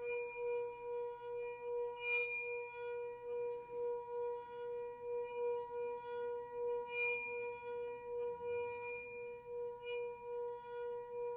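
A sustained sound-healing tone holds one steady pitch with faint higher overtones, pulsing about twice a second. Brief brighter accents come in about two seconds in, again near the middle, and once more near the end.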